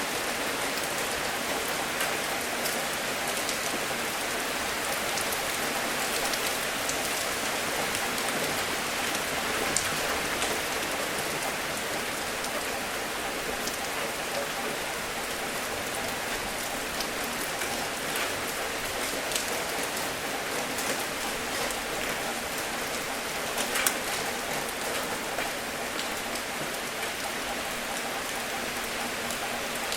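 Gentle rain falling steadily, an even hiss sprinkled with the sharp ticks of individual drops hitting a surface.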